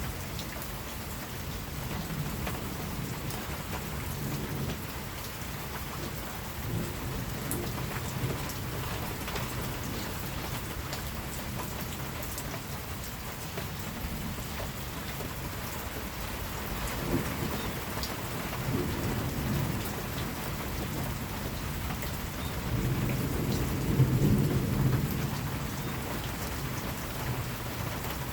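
Steady rain falling, with low rumbles of distant thunder swelling up several times, the strongest near the end.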